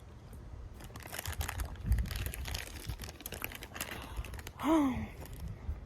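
Close crinkling and clicking handling noises, with one short hum-like vocal sound about four and a half seconds in.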